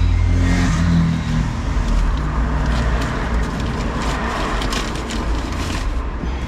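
A steady low rumble, with papers, envelopes and pouches rustling and knocking lightly as they are handled, the handling busiest in the middle of the stretch.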